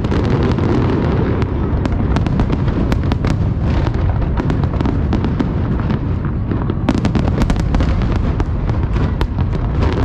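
Fireworks display: a steady low rumble of shell bursts overlaid with many sharp cracks and pops, thickest about seven seconds in.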